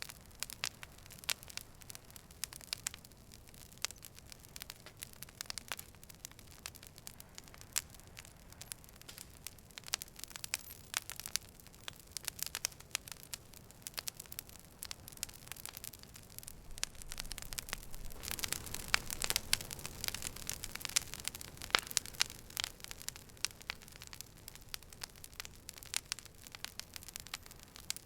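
Campfire crackling, with frequent sharp snaps and pops from the burning wood over a soft hiss. Roughly two-thirds of the way in, the crackling grows busier and louder for a few seconds, with a low rush of flame under it.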